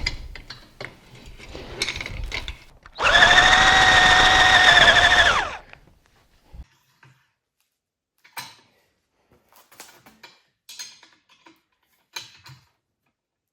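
Electric drill running for about two and a half seconds with a steady whine, boring a hole into the center of a polyurethane caster wheel, then spinning down. Short clicks and taps of handling before and after.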